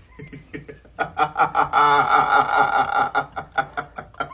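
A person laughing hard in rapid repeated bursts, loudest from about a second in and tailing off near the end.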